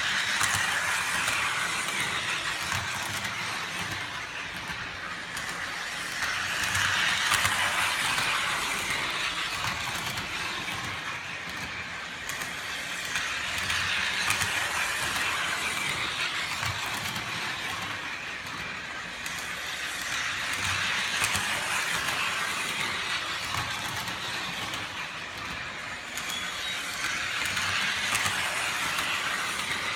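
MTH O-gauge Bump and Go toy trolley running steadily around a circle of O31 RealTrax track, its motor and wheels rattling on the rails. The sound swells and fades about every seven seconds as the trolley circles.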